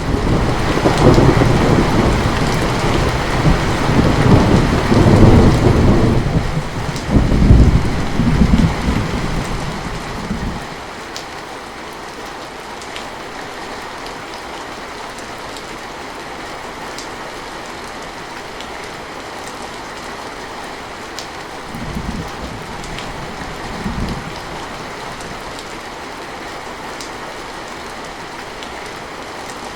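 Steady heavy rain falling, with a peal of thunder that breaks in suddenly at the start and rumbles on for about ten seconds before fading. Later, two brief low rumbles of thunder a couple of seconds apart.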